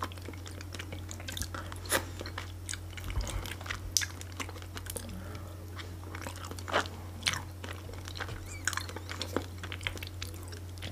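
Close-miked mouth chewing and eating sounds of a layered salad with pineapple and mushrooms: irregular wet clicks and soft crunches, over a steady low hum.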